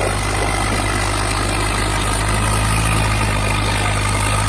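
Swaraj 744 FE tractor's three-cylinder diesel engine running steadily at an even speed.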